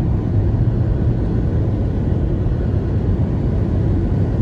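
Steady low rumble of a car driving, road and wind noise heard from inside the cabin.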